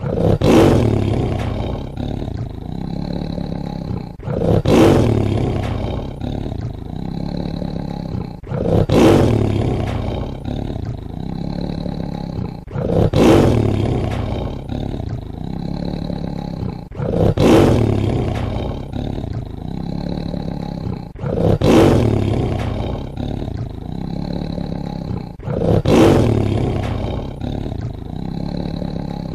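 Tiger roaring over and over, a loud roar about every four seconds, with a steady low rumbling growl between the roars.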